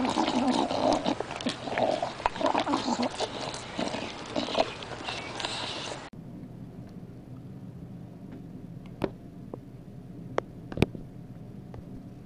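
Animal noises, uneven and busy, for about six seconds, then a sudden switch to a quieter background broken by a few sharp clicks.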